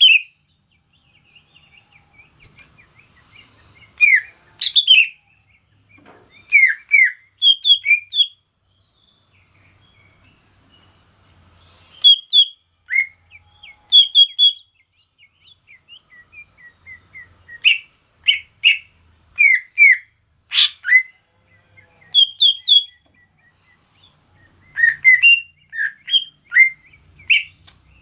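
Cucak ijo (green leafbird) calling in short bursts of sharp, quick chirps and whistled notes, a few notes at a time, with pauses of a second or more between bursts. A steady high hiss runs underneath.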